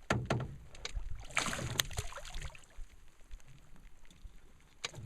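A fish being landed into a small boat: a few sharp knocks at the start, a short splash of water about a second and a half in, and another knock near the end.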